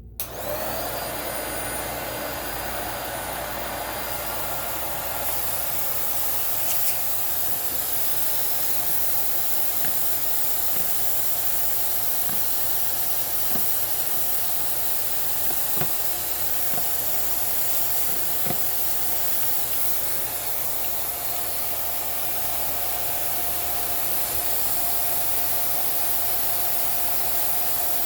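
Vacuum cleaner switched on and running steadily with a steady whine, sucking dust out of the inside of a sewing machine. A few faint clicks come in the middle.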